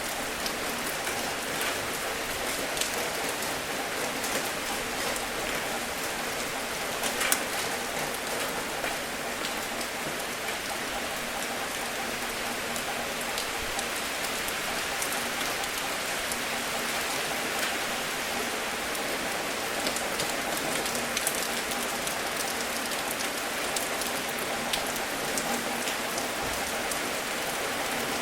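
Steady rain falling: a continuous even hiss with scattered sharper drop ticks, one louder drop about seven seconds in.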